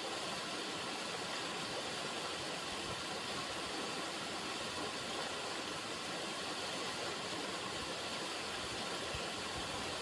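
River water running, a steady, even rush of noise that does not change.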